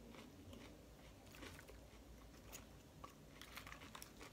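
Faint, mouth-closed chewing of soggy salad, with a few soft clicks of a plastic fork in a plastic salad bowl in the second half.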